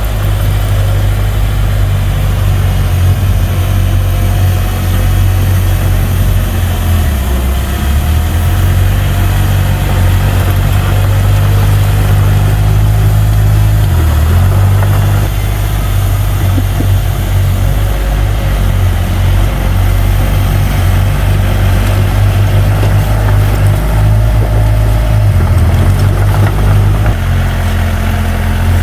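Diesel engine of heavy earthmoving equipment running steadily with a low drone, its pitch dipping and shifting briefly a few times as the load changes.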